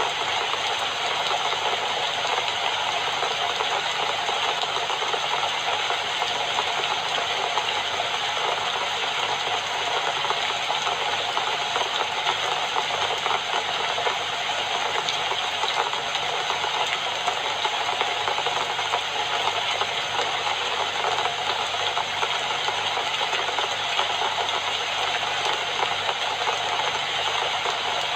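Steady rainfall, an even, unbroken hiss with no changes in strength.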